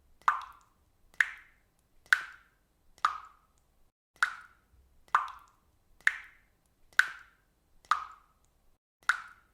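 Water dripping at a steady rate, about one drop a second, each drop a short, clear hit that fades quickly.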